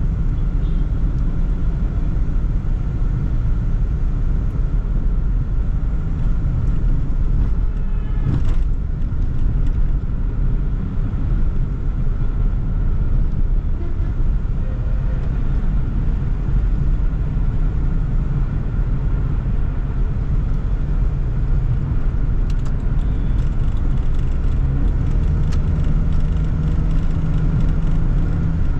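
Steady low drone of a Toyota Sprinter AE110 on the move, engine and road rumble heard from inside the car. A brief sharp noise stands out about eight seconds in.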